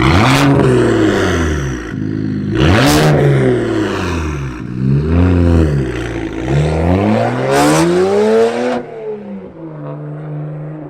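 Straight-piped BMW 135i's N54 twin-turbo straight-six revving hard several times, its pitch rising and falling with each rev. Loud sharp blasts come at the start, about three seconds in and near eight seconds. It settles to a lower, steadier note near the end.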